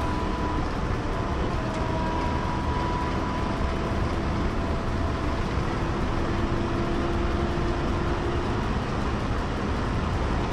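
Steady road and wind noise of a police car driving fast in pursuit, with faint steady whines running through it.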